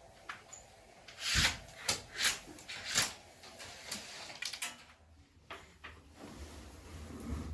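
Household things being handled and put away: a run of knocks and clatters, the loudest about one and a half to three seconds in, then softer handling sounds.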